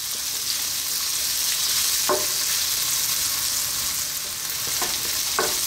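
Garlic, ginger and sliced onion sizzling steadily in hot oil in a wok while being stirred with a spatula: the sauté stage, with the onion turning translucent.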